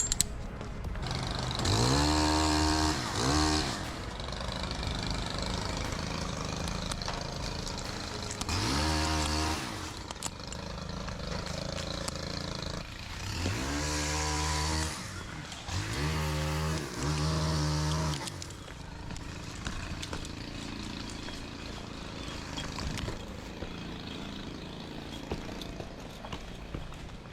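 Chainsaw idling and revved up several times in short bursts, each rev rising in pitch and falling back to idle. The revs stop about two-thirds of the way through, leaving a lower steady running sound.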